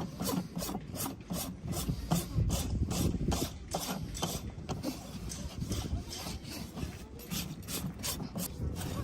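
Farrier's hoof rasp filing down a horse's overgrown hoof in quick, repeated strokes, about three a second.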